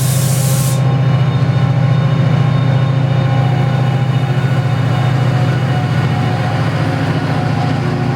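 Diesel locomotive engine running steadily at low revs with a deep, pulsing throb. A hiss of air stops about a second in.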